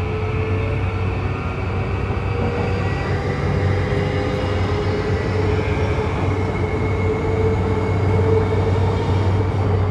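E235 series 1000 electric train running, heard from inside the car: steady wheel and rail rumble with a motor whine that slowly rises in pitch as it gathers speed.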